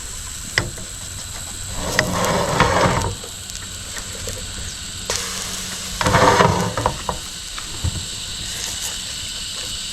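Pancakes frying in a hot pan, a steady sizzle with sharp spatula taps and scrapes as they are flipped, and two louder swells of sizzling about two and six seconds in. A steady high insect drone runs underneath.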